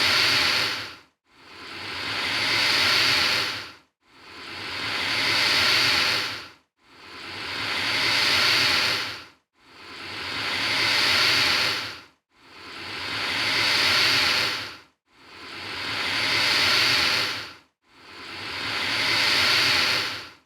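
Alligator hissing: the same long hiss repeated about every 2.7 seconds, eight times in all. Each hiss swells to full strength and then cuts off sharply.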